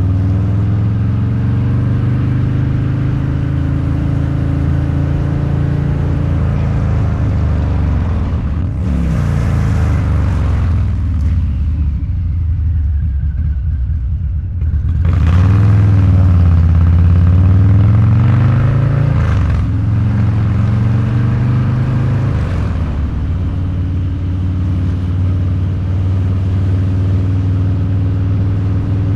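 Harley-Davidson Low Rider's 129 cubic inch V-twin with Two Brothers Racing exhaust running on the road. It eases off around the middle, then picks up throttle and gets louder with a falling-then-rising pitch before settling into a steady cruise.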